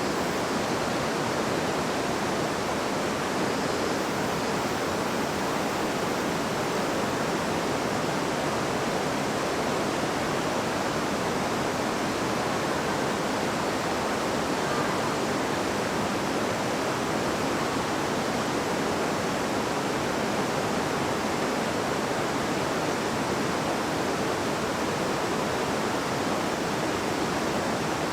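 River water babbling and rushing steadily over stones, an even hiss of flowing water.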